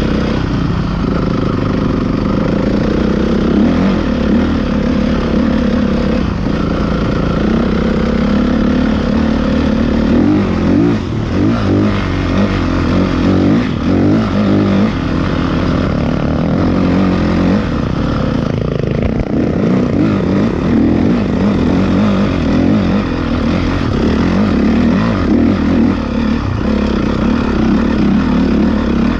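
Motocross motorcycle engines running and revving continuously, the pitch rising and falling as the throttle opens and closes.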